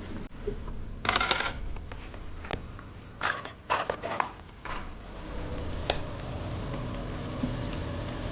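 Kitchen utensils and dishes clinking and scraping over a steady low background noise. A half-second scrape comes about a second in, then a run of short clicks and scrapes, then a single sharp click near the end.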